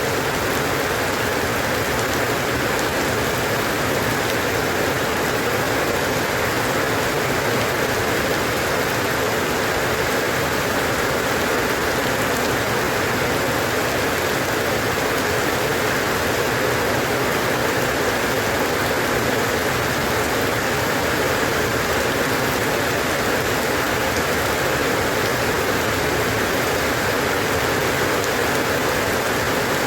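Steady, constant rainfall hiss, with no thunder or single sharp drops standing out.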